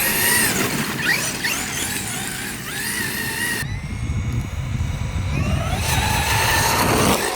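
Electric RC car motor whining, rising and falling in pitch as the throttle is blipped, over rough tyre and ground noise. There is an abrupt cut about halfway through, and the whine climbs again near the end.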